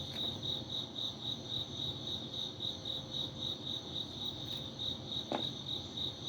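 Crickets chirping steadily in a fast, even rhythm, about five high chirps a second, with a single soft tap about five seconds in.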